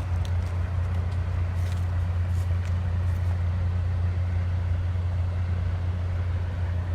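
Semi-truck diesel engine idling with a steady low hum.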